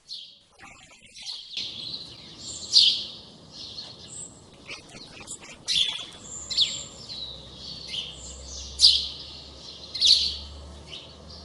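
Songbirds chirping: a run of short, high calls, many sliding downward, over a faint steady background hiss that comes in about a second and a half in.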